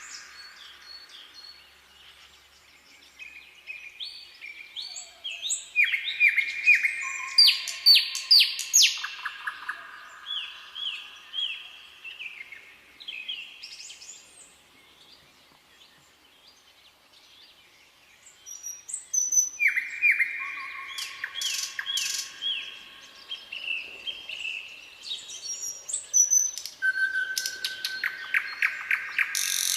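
Songbirds singing: bouts of rapid repeated chirps and trills, quieter for a few seconds about midway before the song picks up again.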